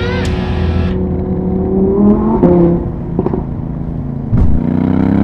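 Vehicle engine accelerating hard, its pitch climbing and then dropping back several times as it shifts up through the gears, with a sharp pop about four seconds in. Rock music fades out in the first second.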